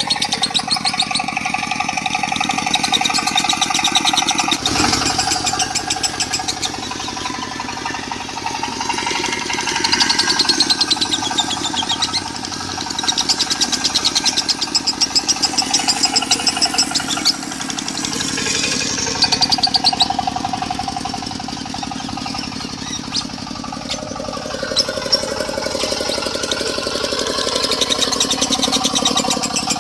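A lovebird singing a long, rapid, buzzing 'konslet' chatter in swelling waves over a diesel engine running steadily underneath.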